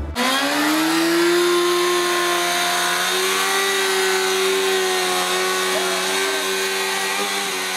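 A vehicle engine held at high, nearly steady revs: one strong, even tone with many overtones and a rushing hiss, rising slightly in pitch in the first second, then holding.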